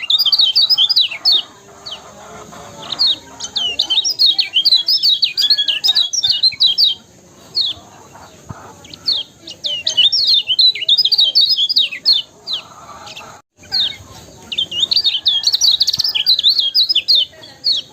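Lemon-bellied white-eye (kecial kuning) singing: fast runs of high, sharply sweeping chirps in bursts of a few seconds, broken by short pauses.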